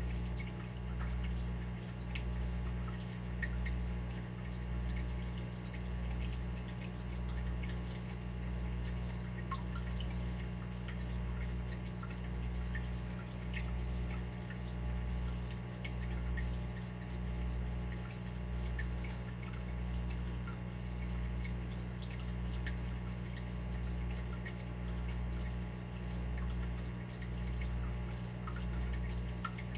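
Water dripping: small irregular drops falling one after another, over a steady low hum that swells and fades about once a second.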